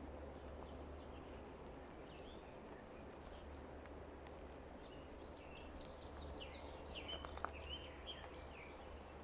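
Songbird singing in forest ambience: a quick run of short downward chirps starts about halfway through and lasts some four seconds, over a faint steady background with a low hum.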